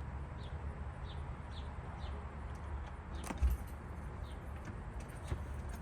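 A small bird giving short, high, falling chip notes about twice a second, which fade out around the middle, over a steady low outdoor rumble. A single low thump about three and a half seconds in.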